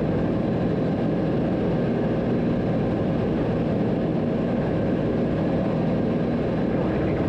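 Cessna 182's single piston engine and propeller droning steadily in flight, heard from inside the cockpit.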